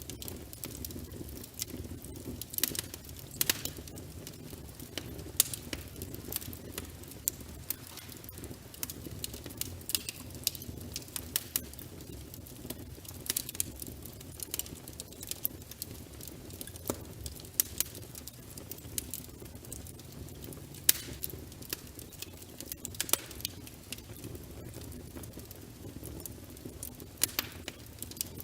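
Log fire crackling: irregular sharp pops and snaps over a low steady rush of flames.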